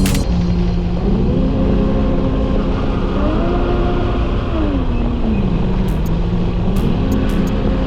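Motorcycle engine running under way, its pitch rising twice as it speeds up, holding, then falling back and rising again.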